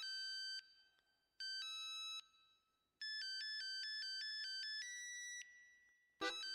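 Electronic ringtone-style melody of pure beeping tones: two short chimes, then a quick run of alternating notes ending on a held higher note that fades out.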